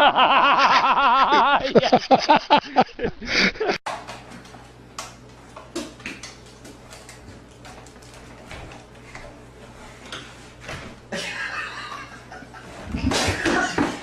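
People laughing: a long wavering laugh that breaks into quick ha-ha pulses, then cuts off abruptly. A quieter stretch of faint clicks over a low steady hum follows, and laughter comes back near the end.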